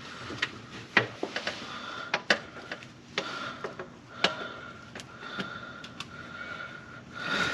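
Irregular light clicks and knocks of hand tools and metal parts being handled while a new part with an O-ring is worked into its bore on the underside of the car. There are about a dozen sharp taps, with a faint steady high tone behind them.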